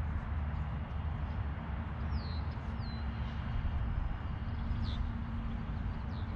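Birds chirping outdoors: a few short, high, downward-sliding chirps, about two seconds in and again near the end, over a steady low rumble.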